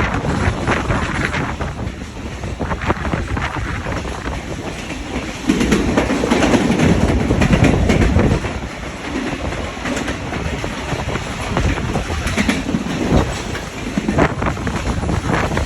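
Passenger train running on the track, with the wheels clicking over rail joints and a louder low rumble for a few seconds about a third of the way in.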